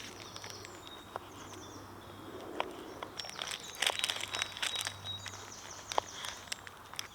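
Woodland birdsong: several small birds chirping and trilling in short repeated phrases, with a few scattered sharp clicks and a faint steady low hum underneath.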